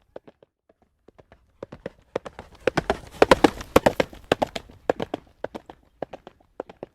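Horse trotting on a hard road, hooves clip-clopping. The hoofbeats are sparse at first, grow dense and loudest about three to four seconds in, then thin out again.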